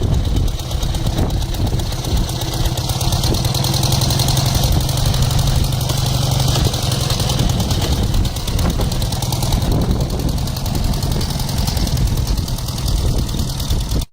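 Ural motorcycle's flat-twin engine running steadily.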